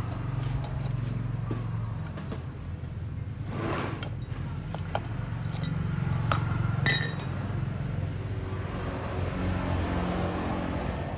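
Metallic clinks and taps over a low steady hum, with one sharp, ringing metal clink about seven seconds in.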